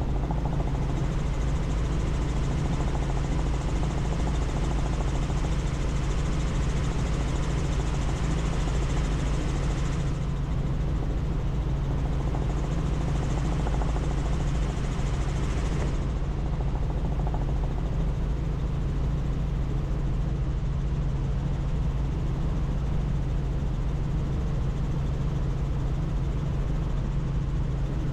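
Helicopter in flight, heard from on board: a steady low drone of rotor and engine over a rushing noise. The higher hiss weakens about ten seconds in and drops further around sixteen seconds.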